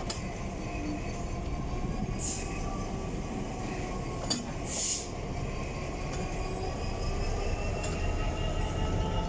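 Class 66 diesel locomotive's two-stroke EMD V12 engine working as it pulls away, with a steady low rumble and a whine that rises slowly in pitch as it gathers speed. Two brief high-pitched sounds cut in about two and five seconds in.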